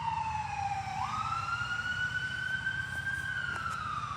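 Fire engine siren on a wail: the pitch falls, jumps back up about a second in, climbs slowly, then starts falling again near the end. A steady low engine rumble runs underneath.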